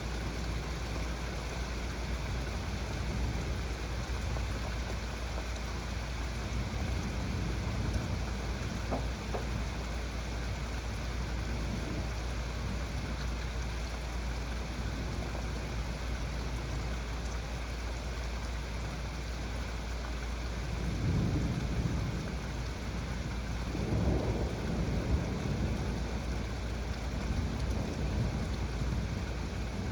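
Heavy rain falling steadily in a thunderstorm, with thunder rumbling low about two-thirds of the way in and again a few seconds later.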